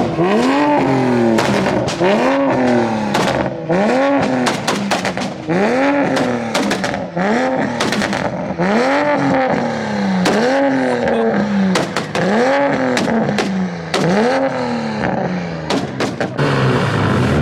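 Car engine being revved over and over, about a dozen quick throttle blips that rise and fall back, roughly one every second and a half, with sharp pops scattered between them.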